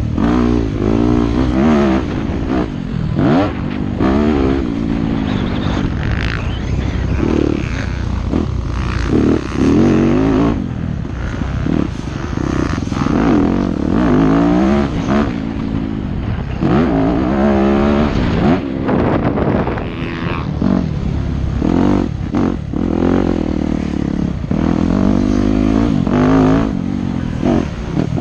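Yamaha YZ250F four-stroke single-cylinder motocross bike engine revving hard as it is ridden, its pitch climbing and dropping over and over as the throttle opens and closes.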